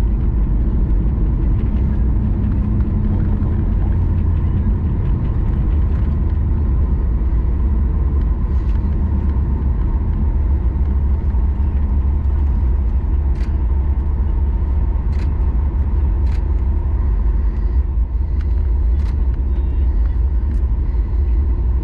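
Steady low rumble of cabin noise inside a Boeing 737 MAX 9 airliner, its CFM LEAP-1B engines and airflow running evenly, with a faint steady whine and a few light clicks in the second half.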